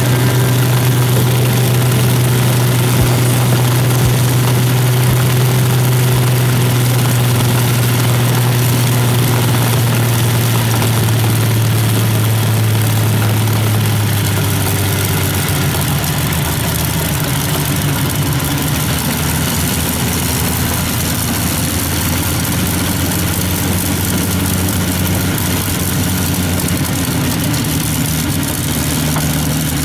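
A Spitfire's V12 piston aero engine running steadily during a ground run-up, with a deep, even drone; about halfway through its note shifts to a different pitch as the engine speed changes.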